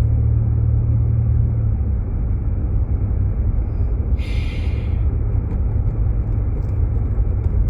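Steady low rumble of a Jeep Grand Cherokee's road and engine noise, heard inside the cabin while driving on snowy roads. A brief hiss comes in about four seconds in.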